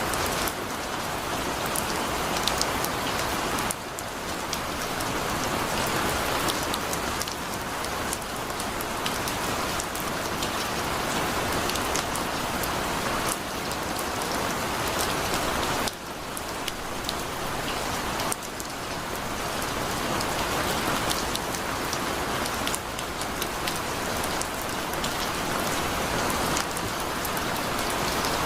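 Heavy rain falling steadily, a dense even hiss with scattered sharp drop impacts; the downpour eases for a moment twice, once about four seconds in and again around the middle.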